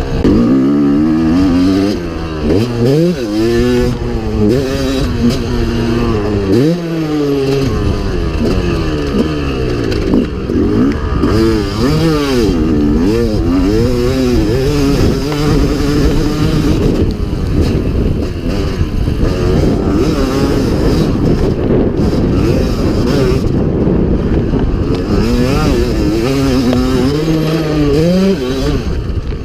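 Motocross dirt bike engine being ridden hard, revving up and backing off over and over, its pitch climbing and dropping every second or two.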